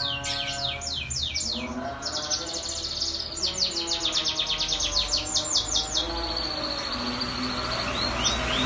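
Domestic canary singing: fast trills of rapidly repeated, downward-sweeping high notes, about eight a second, over lower held notes. The trills stop about six seconds in, and a few quieter notes follow near the end.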